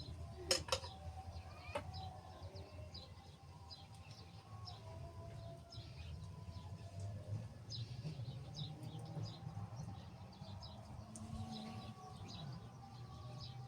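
Small birds chirping in short high calls, again and again, over a steady low hum. A sharp click sounds about half a second in, and a fainter one just before two seconds.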